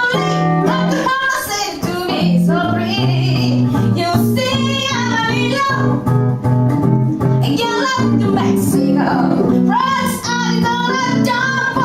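Live band performance: female vocals singing a melody over guitar accompaniment.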